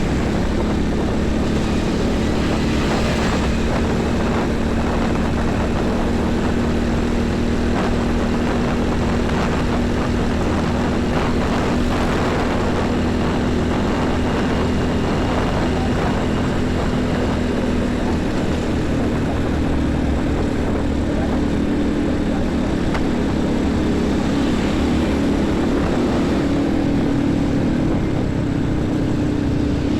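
Heavy traffic of diesel trucks and buses running close by, a steady engine drone over passing tyre and engine noise; from about two-thirds of the way in, a second engine's note comes in and shifts in pitch.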